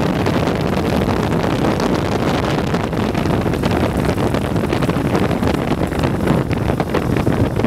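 2012 Morgan 3 Wheeler's V-twin engine running hard at speed on a hill climb, heard from on board with heavy wind buffeting on the microphone.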